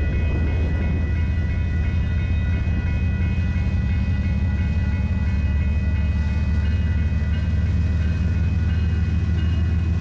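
Diesel freight locomotives running steadily as they approach, a deep engine hum and rumble, with a grade-crossing warning bell ringing in even, rapid strokes over it.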